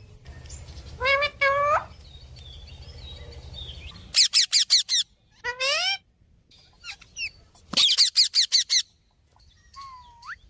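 Cockatiel calling: a pair of whistled calls, then two quick runs of sharp, repeated chirps about four and eight seconds in, with single calls between them and a short rising whistle near the end. A low hum runs under the first four seconds.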